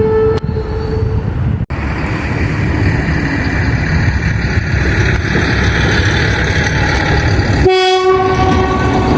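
Locomotive horn ending about a second in. Then a train runs past with a steady loud rumble, and a second, lower horn blast starts near the end.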